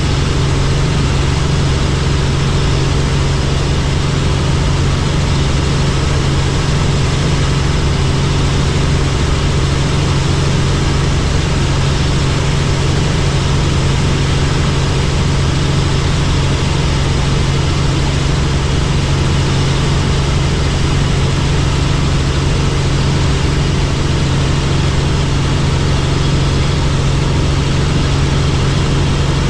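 Helicopter in flight: steady, unchanging rotor and engine noise with a strong constant low hum.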